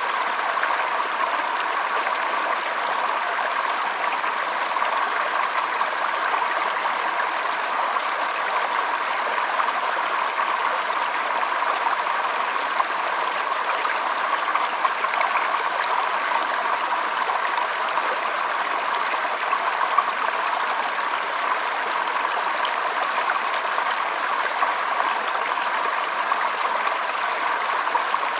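Shallow stream flowing and trickling over stones, a steady, even water sound.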